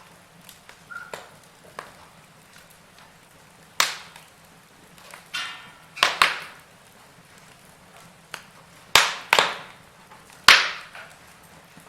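Burning logs crackling in a fireplace: scattered sharp pops and snaps over a low, steady hiss, with the loudest pops coming in the second half.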